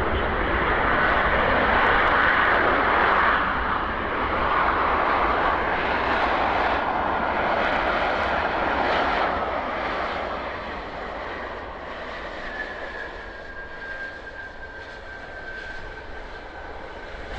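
Airbus A330-243 jet airliner with Rolls-Royce Trent 700 engines passing close on landing: a loud engine rush that fades over the second half. A thin steady whine is left near the end.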